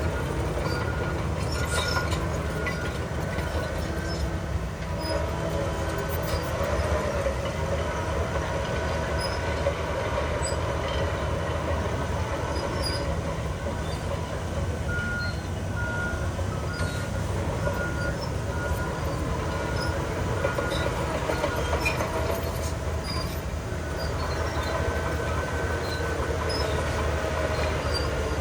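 Crawler bulldozer at work: its diesel engine runs steadily under load, with a high squeal from the steel tracks that comes and goes and light clanking.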